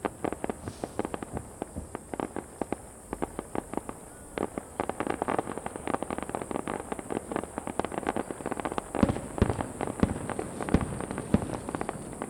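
Aerial firework shells bursting in quick succession: a dense run of sharp pops and crackles, easing off briefly about three and a half seconds in, then thicker again with louder bangs from about nine seconds.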